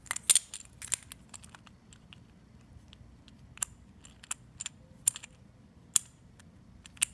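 Irregular sharp clicks and rattles from an old garage door pulley being worked by hand, the loudest cluster right at the start. Its bearing is very loose and worn, which makes the pulley run off centre and the door shake and jerk.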